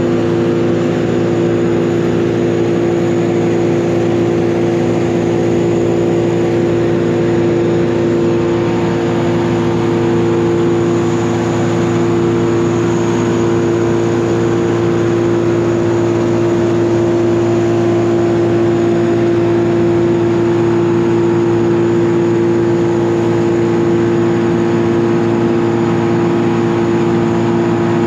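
Engine of heavy tree-removal machinery running steadily at a constant pitch, with no change in speed.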